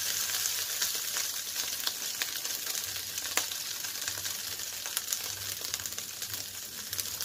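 Diced ham and hotdog frying in a little olive oil in a non-stick pan: a steady sizzle with scattered pops and crackles.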